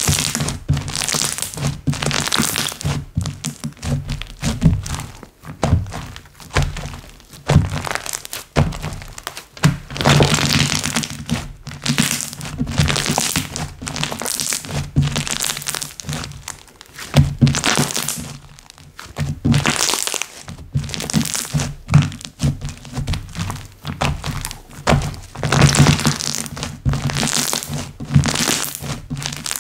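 Hands kneading, squishing and stretching slime, a continuous run of irregular sticky clicks and squelches.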